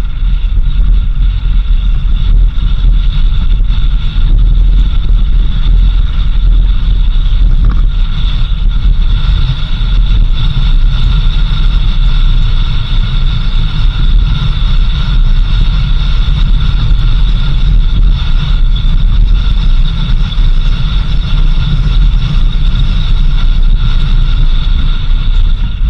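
A vehicle driving on a dirt road, with a steady, loud low rumble of engine and road noise and wind buffeting the microphone.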